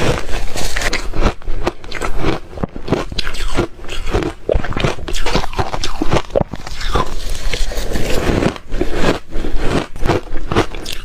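Shaved refrigerator ice being bitten and chewed close to the microphone: a rapid, irregular run of crisp crunches and crackles.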